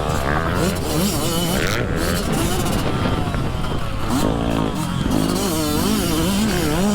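Dirt bike engine revving up and down as the throttle is worked, its pitch rising and falling several times a second.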